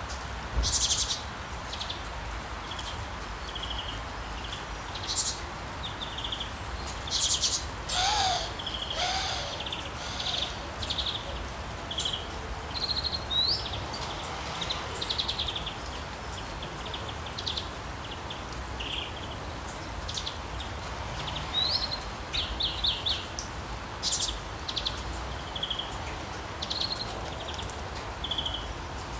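Rainforest ambience of birds calling and chirping, with short high calls and trills every second or so over a steady background hiss of rain and insects. Two lower calls come in around the middle.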